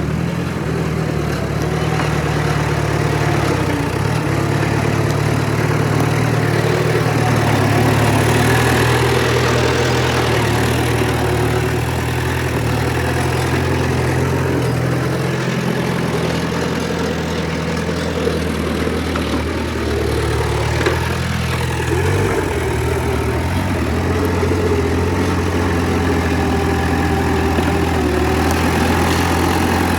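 Heavy diesel engine of an earthmoving machine running steadily, with a brief change in engine note about two-thirds of the way through.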